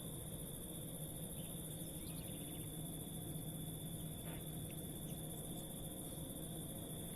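Insects such as crickets chirring steadily in a continuous high-pitched chorus.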